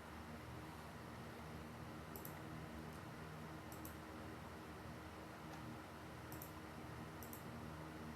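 Four brief clusters of faint, sharp clicks from desk work, spaced a second or two apart, over a steady low room hum.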